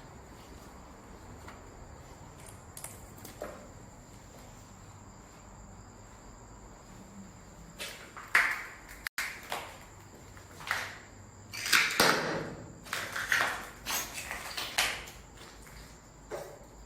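Steady high drone of insects, likely crickets, and from about eight seconds in a run of loud, sharp, short rustling and scraping noises, with gaps between them, that stops near the end.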